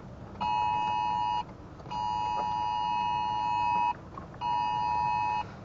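Phone emergency alert tone for a tornado warning: a steady two-tone beep that sounds for about a second, stops briefly, sounds again for about two seconds, then once more for about a second.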